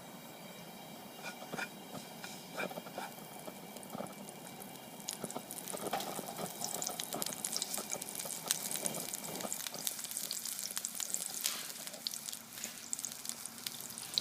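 Hot oil crackling and spattering in a wok, frying freshly added ginger. It starts faintly and the crackles grow denser and louder from about five seconds in.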